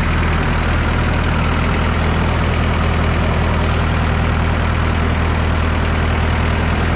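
Massey Ferguson 3165 backhoe tractor's diesel engine running steadily as the tractor drives off through mud.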